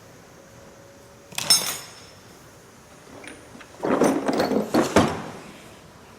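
Objects being handled: a sharp clatter about a second and a half in, then a quick run of knocks and rattles around four to five seconds in.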